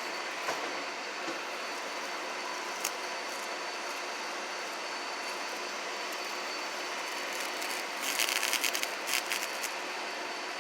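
Steady airy hiss, with a short burst of rapid papery fluttering about eight seconds in: the wings of a dead superb dog-day cicada beating.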